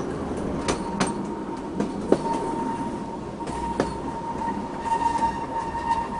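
Narrow-gauge electric train running, its wheels clicking sharply over rail joints every second or so. A steady high whine comes in about two seconds in and grows louder as the train runs onto curving track.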